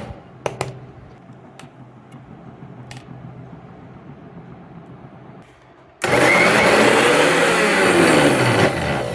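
Bosch TrueMixx Bold 600 W mixer grinder wet-grinding soaked whole urad dal in its large jar, run in pulses. The motor stops at the start, and a few light clicks follow in a quieter spell. About six seconds in it starts again abruptly, runs loud for about three seconds, then dies away near the end.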